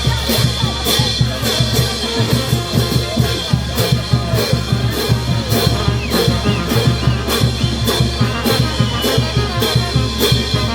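A brass band playing festive music, drums keeping a fast, steady beat under the horns.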